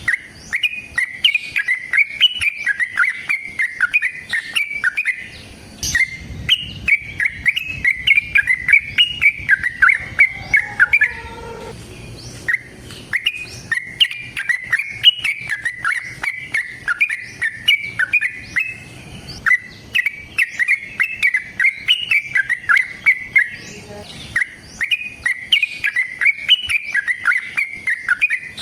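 Yellow-vented bulbul (trucukan) singing a long, fast run of bubbly chattering notes, with a short break about eleven seconds in.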